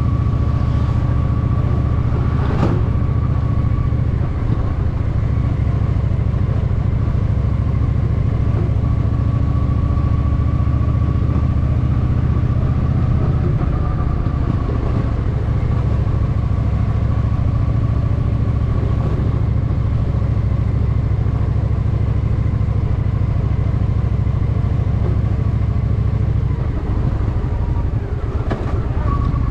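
Honda Shadow VT750's V-twin engine running steadily under way, heard close up from the bike. The engine note steps down a little about halfway through, and the level dips briefly near the end, as when easing off or changing gear.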